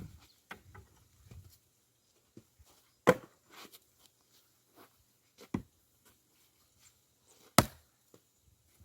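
Axe splitting firewood logs: three sharp, heavy blows about two and a half seconds apart, with lighter knocks of wood between them.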